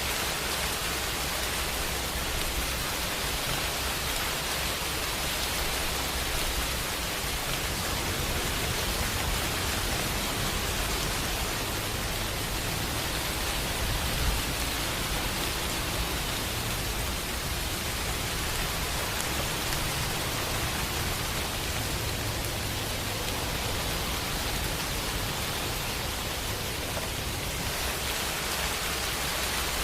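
Steady rain, an even hiss of falling rain with a low, steady rumble underneath.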